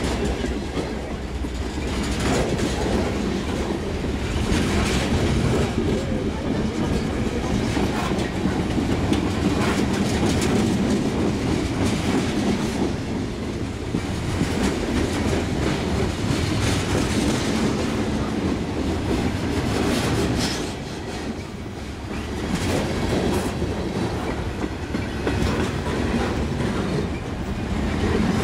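BNSF freight train's lumber flatcars and boxcars rolling past close by: steel wheels rumbling steadily on the rails with a repeated clickety-clack over the rail joints. It eases briefly about two-thirds of the way through.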